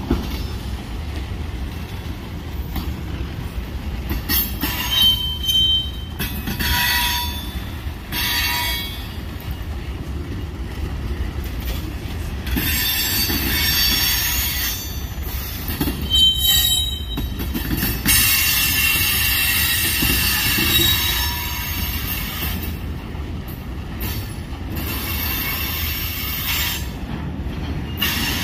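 Freight train of tank cars rolling past at close range: a steady rumble from the cars and rails, with high-pitched metal wheel squeals that come and go several times.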